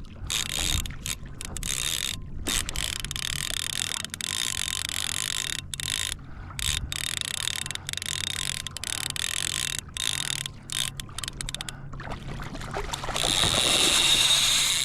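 Fishing reel's drag buzzing as a hooked dorado pulls line off, stopping briefly several times and getting louder near the end.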